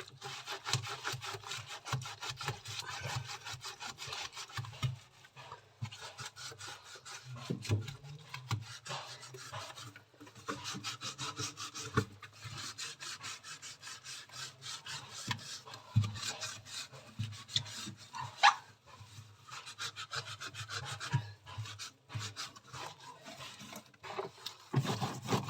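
Rapid back-and-forth scrubbing of caked grime off the inside of a refrigerator, stopping briefly a few times.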